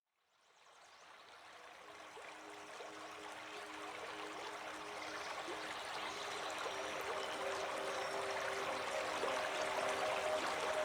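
Running water fading in from silence, joined by soft sustained music notes that grow louder.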